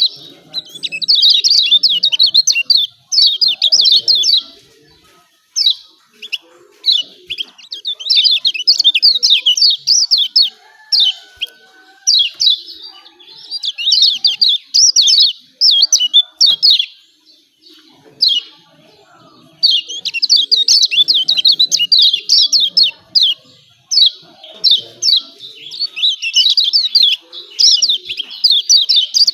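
Kecial kuning, a white-eye, calling its rapid 'ciak ciak' chatter: fast runs of high, sharp chirps in bursts of a second or two, broken by short pauses, a call used as a lure to set other kecial singing.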